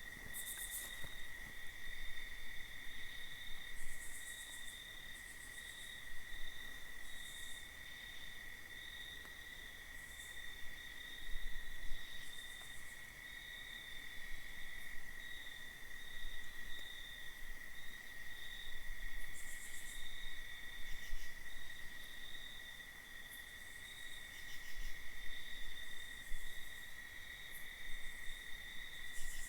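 Night insects trilling: one steady, unbroken high-pitched trill, with short faint hissing bursts higher up every few seconds.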